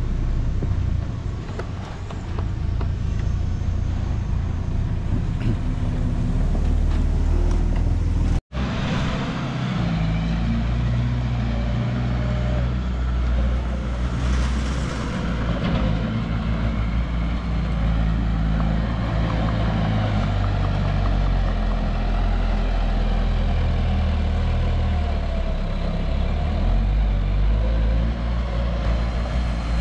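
Heavy diesel engines of earthmoving machines running under load. The sound cuts out for an instant about eight seconds in, then goes on with the same kind of engine noise.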